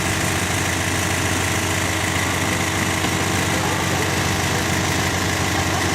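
A steady engine hum at constant speed, even and unchanging.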